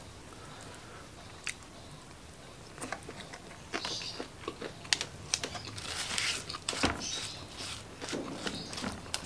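Close-miked chewing of a mouthful of food: fairly quiet at first, then from about three seconds in a run of crisp crunches and wet mouth clicks.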